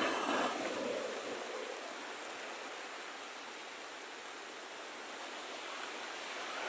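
Rough sea surf breaking on a beach: a surge of rushing water in the first second, easing into a steady wash.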